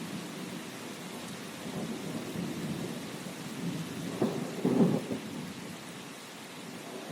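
Steady rain with rolls of thunder rumbling underneath, the loudest swell about four to five seconds in, then easing off.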